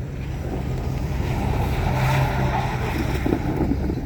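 A vehicle engine running steadily, swelling a little in the middle.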